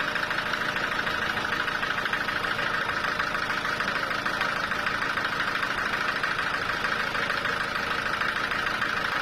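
Sawmill saw running steadily, a continuous machine noise with a strong high hum that does not change.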